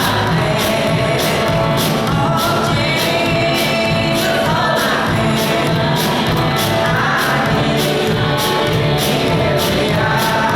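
Gospel hymn sung by a church congregation with instrumental accompaniment and a steady beat of about two strikes a second.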